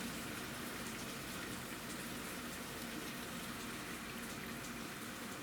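Steady rain falling, with no more hail.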